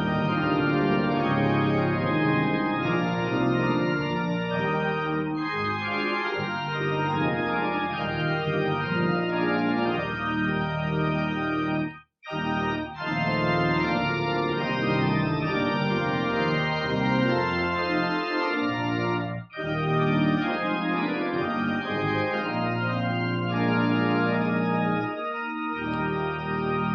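Austin–Walker Technical combination pipe-and-digital church organ playing loud full chords with the stops combined and a 16-foot pedal trombone in the bass. The sound breaks off briefly twice, about twelve seconds in and again near twenty seconds, between phrases.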